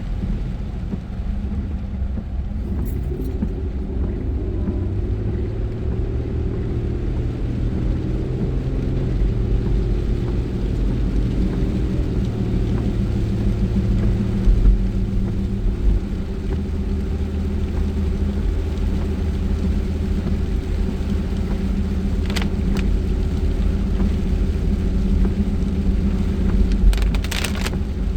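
Car engine and road noise heard from inside the moving car, a steady low hum whose pitch shifts a few times as the speed changes. There are a few brief clicks near the end.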